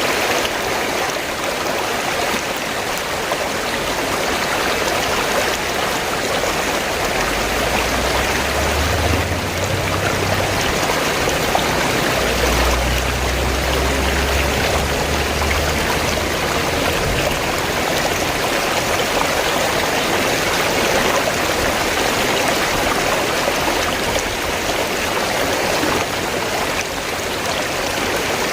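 River water flowing in a steady, even rush. A low rumble sits underneath for several seconds in the middle.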